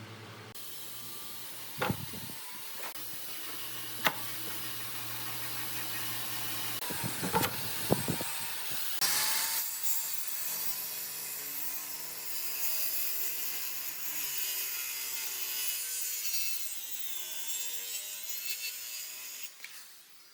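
Wood being cut or worked with a tool: a continuous rasping noise with a few sharp knocks in the first half, louder from about halfway through.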